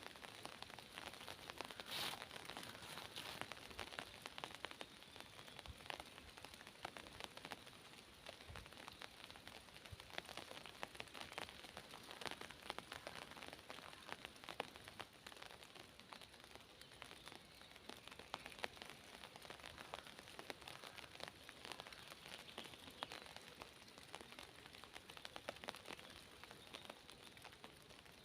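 Light rain falling in a forest: a soft, faint hiss with many separate drops ticking all through it.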